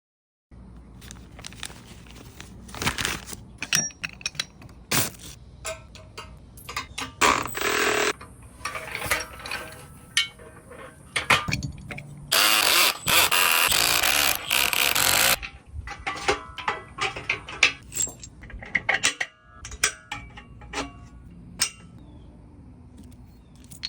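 Hand-tool and metalwork sounds: a long run of sharp knocks, clicks and scrapes, with one loud, steady hissing noise from a power tool lasting about three seconds in the middle.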